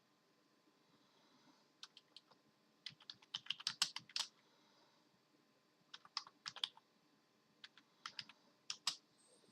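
Computer keyboard keys being struck in four irregular bursts of rapid clicks, with short pauses between them.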